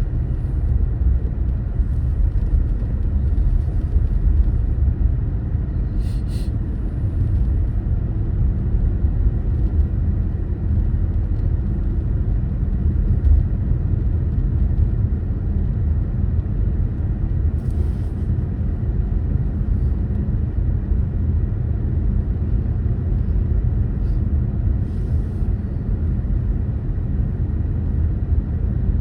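A car being driven: a steady low rumble of road and engine noise with no change in speed, and a few faint brief hisses now and then.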